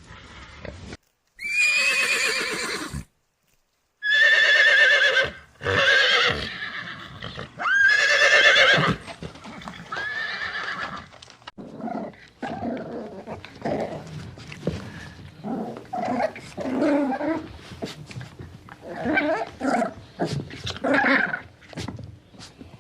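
Horses neighing: about five loud, drawn-out whinnies with a quavering pitch in the first half, followed by a run of shorter, quieter, lower sounds.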